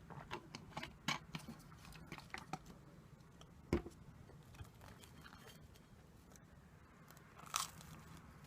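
Close-miked eating: bites and crunchy chewing of a crisp sweet, with scattered sharp crunches. The loudest comes about four seconds in, and another near the end.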